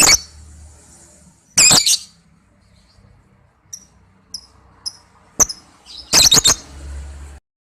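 Lovebird giving shrill, high calls in short bursts: one at the start, another about a second and a half in, a few soft short chirps in the middle, then a quick run of loud calls near the end.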